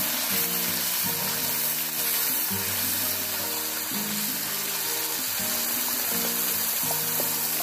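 Wet ground onion-and-coconut masala paste frying in hot oil in a kadhai, giving a steady sizzle. Background music with held notes plays under it.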